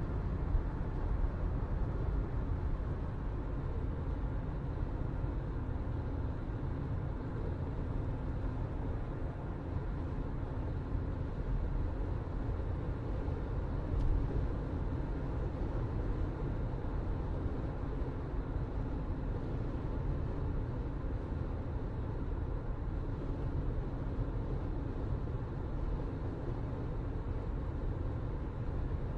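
Steady low rumble of background noise with a faint constant hum, unchanging throughout.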